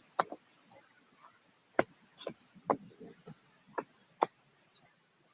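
A series of irregular sharp clicks and taps, about eight over five seconds, over faint background noise.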